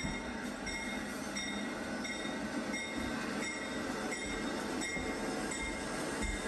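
Train cars rolling past on the rails, with short high-pitched wheel squeals coming again and again over a steady rumble.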